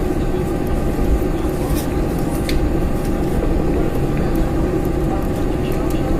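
Steady cabin noise inside a Boeing 747-400 airliner: a constant deep rumble of the engines and airflow with a steady hum, and a few faint ticks.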